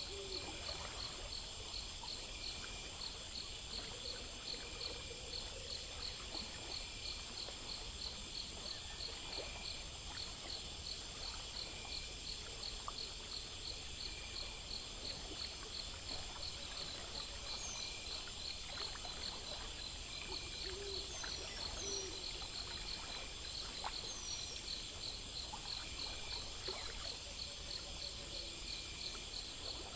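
A night chorus of crickets and other insects chirping in fast, steady pulsing trills, over a faint running stream. A few short, quick chirps come through around the middle.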